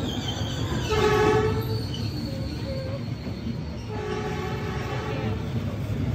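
Diesel-hauled passenger train rolling past at close range, a steady low rumble of wheels and carriages, with two blasts of the train's horn, about a second in and again about four seconds in.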